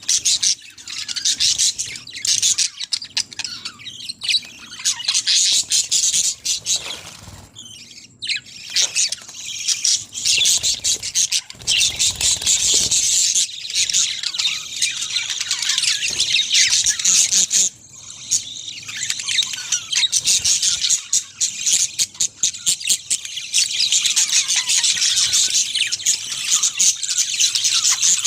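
A flock of budgerigars chattering and chirping continuously, many birds at once, with a couple of brief lulls.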